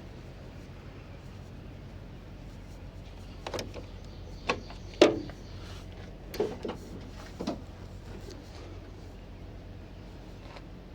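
A run of six short clunks and knocks, the loudest about five seconds in, over a steady low hum.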